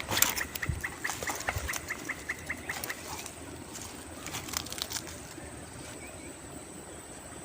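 A bird calling a quick series of about a dozen short, high pips, roughly seven a second, over scattered clicks and rustling. A thin, steady high whine runs underneath.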